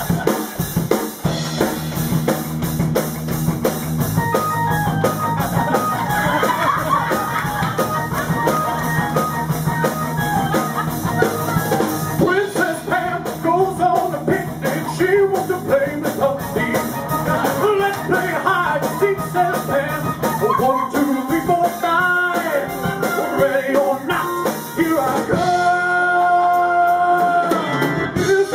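Live band of drums, electric guitar, bass and keyboard playing an upbeat song, with a male voice singing over it. Near the end the band holds a few long notes.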